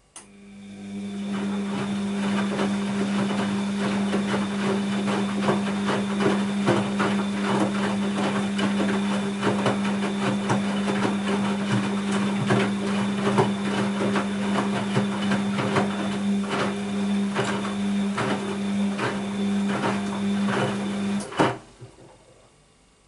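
Bosch WAB28220 washing machine's drum turning during the wash phase: a steady motor hum with irregular knocks and swishes from the wet laundry and water tumbling. It starts suddenly and stops after about twenty seconds with a final knock.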